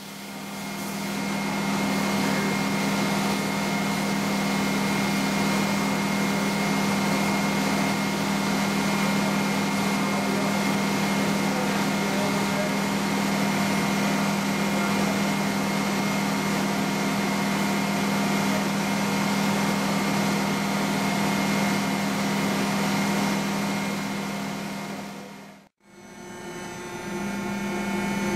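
Mori Seiki NT450 CNC mill-turn machine running, machining a 7075 aluminium blade: a steady hum with several whining tones over a constant hiss. It fades out briefly about 26 seconds in and comes back with a slightly different set of tones.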